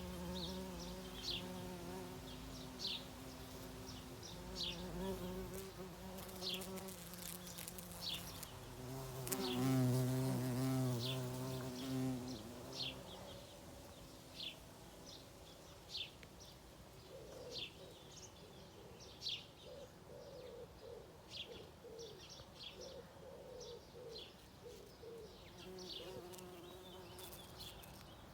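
A flying insect buzzing near the microphone, its wavering hum growing loudest about nine to twelve seconds in. Short high chirps repeat about once a second throughout.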